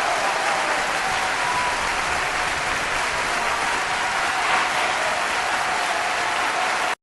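Crowd applause sound effect: a dense, steady wash of clapping that cuts off abruptly near the end.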